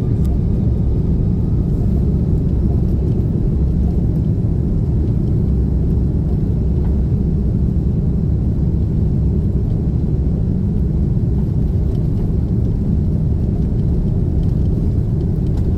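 Steady, even low rumble of an Airbus A330-300 heard from inside its cabin, the airliner's engines and airflow running without any change in pitch.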